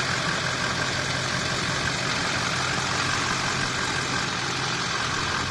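Car engine running steadily under a constant rushing noise.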